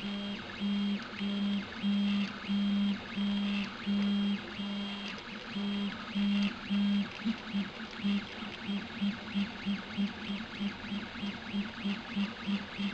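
Prusa i3-type 3D printer's stepper motors running in a steady pitched tone that starts and stops with each move: moves of about half a second at first, then, after about seven seconds, quicker short moves of about two or three a second.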